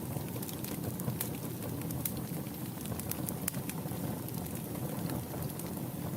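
Wood fire burning in a fireplace: a steady low rush of flame with scattered sharp crackles and pops, several a second at irregular intervals.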